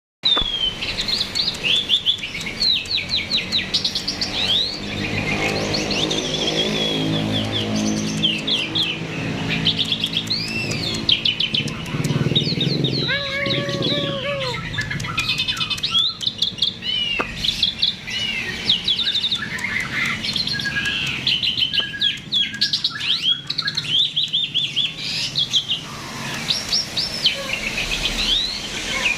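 A jalak (starling) in full, continuous song: a rapid, almost unbroken run of chirps, whistles and chattering notes.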